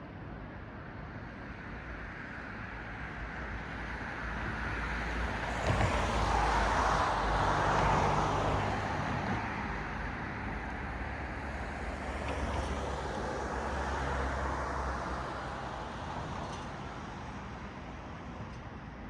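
Cars passing on a road, tyre and engine noise. The noise swells to its loudest about seven to eight seconds in and fades, then a smaller second swell comes about fourteen seconds in and dies away.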